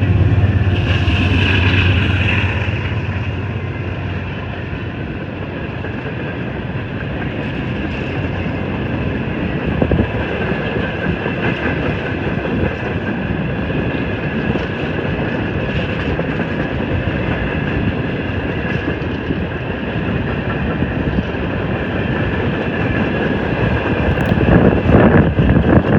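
Empty coal hopper cars of a freight train rolling past, steel wheels on rail, in a steady rumble with faint high-pitched ringing. A low hum fades out over the first few seconds.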